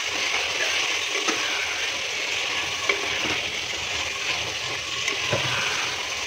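Mutton and masala sizzling in oil in an aluminium pressure cooker as it is stirred with a metal ladle. A steady frying hiss is broken by a few short scrapes and taps of the ladle against the pot.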